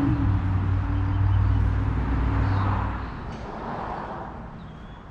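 A motor vehicle's engine running with a steady low hum, fading away about three seconds in.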